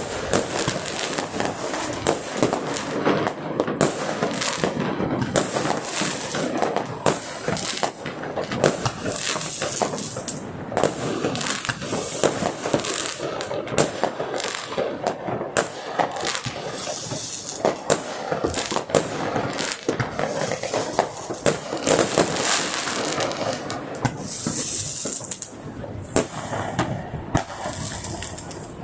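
Fireworks and firecrackers going off without pause: a dense run of sharp bangs and crackling, many overlapping.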